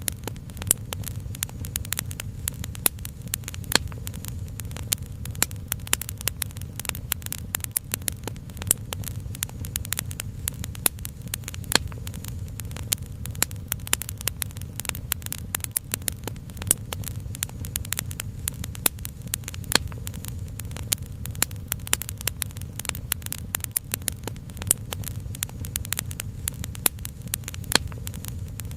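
Wood fire crackling: dense, irregular sharp pops and snaps, several a second, over a steady low rumble.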